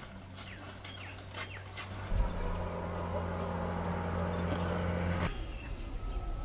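Outdoor ambience of insects and birds chirping, with a steady low hum and a high insect-like tone that start about two seconds in and cut off suddenly after about three seconds.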